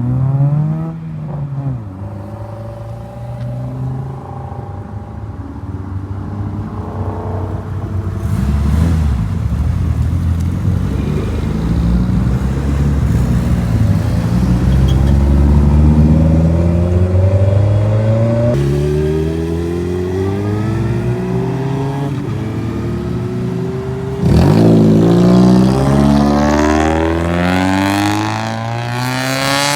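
Car engines accelerating hard as cars pull out, their pitch climbing and then dropping back at gear changes. A louder car comes in about 24 seconds in and revs up near the end.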